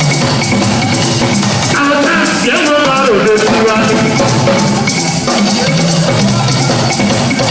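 Live band playing Latin-style dance music: drum kit and percussion keep a steady beat under a melodic lead line that bends in pitch about two to three seconds in.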